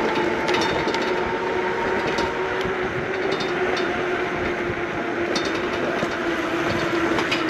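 Electric bike rolling over a rough alley surface: a steady rumble of tyres on grit with scattered small clicks and crunches, under a steady hum.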